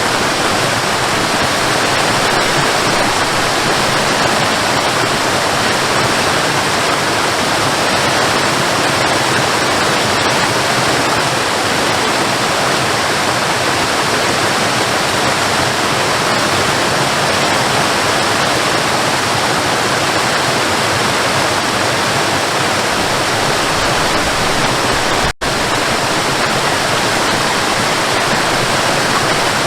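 Waterfall: a steady, loud rush of falling water, unbroken except for a split-second dropout to silence a little over three quarters of the way through.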